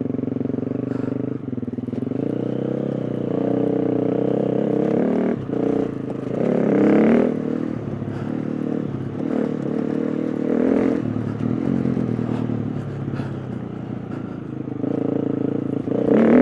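A KTM 350 EXC-F dirt bike's single-cylinder four-stroke engine being ridden hard, its revs rising and falling with the throttle. There are louder surges of power about six to seven seconds in and again near the end.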